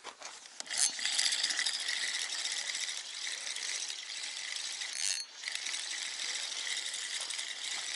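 Fishing reel being cranked to retrieve the feeder rig, its gears giving a steady rattling whirr. The cranking starts about a second in, pauses briefly a little after five seconds, then carries on.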